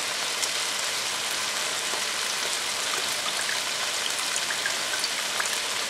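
Chicken thighs frying in oil with onion, carrots and garlic in a hot pan: a steady sizzle with scattered small crackles.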